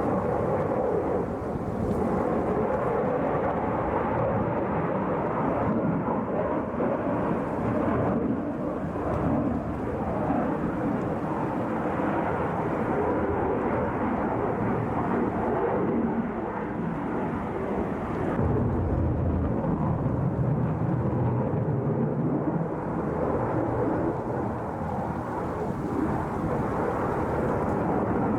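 Su-57 fighter jet's engines during an air-show display, a continuous jet roar heard from the ground, with a deeper rumble swelling about two-thirds of the way through.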